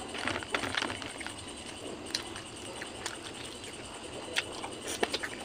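Close-up eating sounds: chewing and lip-smacking on grilled fish eaten by hand, a few short wet smacks and clicks scattered through.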